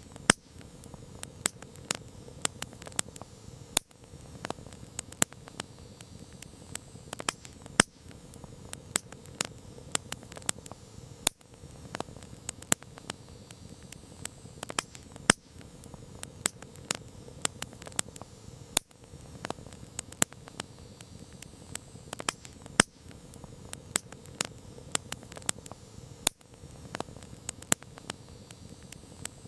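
Campfire crackling: irregular sharp pops and snaps of burning wood, several a second and some much louder than others, over a steady low rush of the flames.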